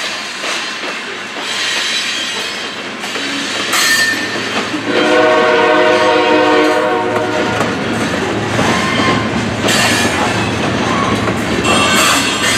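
Loaded covered hopper cars of a freight train rolling across a grade crossing, with steady wheel clatter over the rail joints. About five seconds in, a locomotive air horn sounds a long chord for several seconds, breaks off, and starts again near the end.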